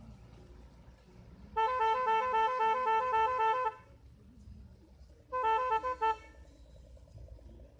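An electric horn sounds a rapid two-tone warble, alternating between two pitches, for about two seconds. A shorter burst follows about a second and a half later.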